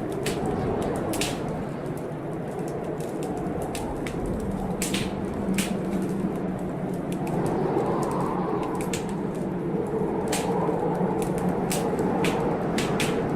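Wood fire crackling in a fireplace, with frequent sharp pops and snaps, over heavy blizzard wind blowing steadily, its pitch shifting up and down.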